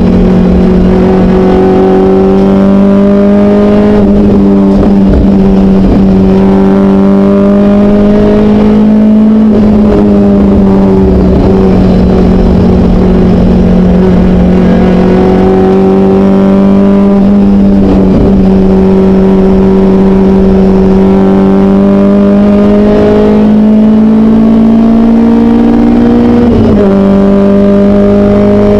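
BMW 318is E30 hill-climb race car's four-cylinder engine at high revs under hard acceleration, heard on board. Its note climbs slowly, then drops sharply a few times as it shifts gear, the clearest drop near the end, over steady wind and road rush.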